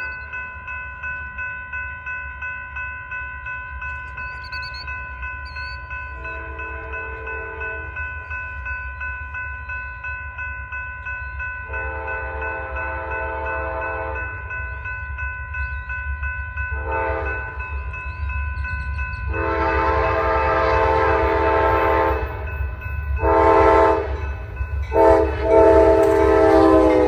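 A grade-crossing bell rings steadily while the eastbound Amtrak Sunset Limited's locomotive horn sounds a series of long and short blasts, the crossing warning, as the train approaches. Over the last several seconds the train's rumble joins in and grows louder, and the horn's pitch drops near the end as the locomotive passes.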